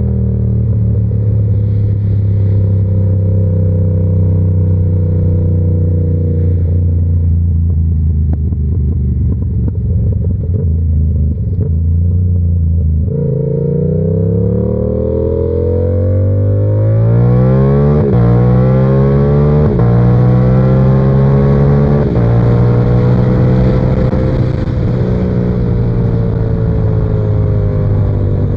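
Yamaha R7's parallel-twin engine, through an SC-Project exhaust, running at a steady cruise. About halfway through the revs dip, then the engine pulls up through the gears, with the pitch rising and dropping at three quick upshifts, before settling back to a steady cruise.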